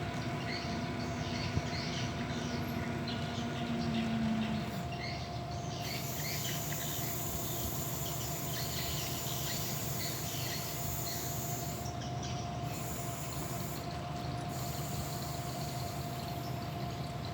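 Excavator running steadily under a constant whine, with a lower hum that stops about four seconds in.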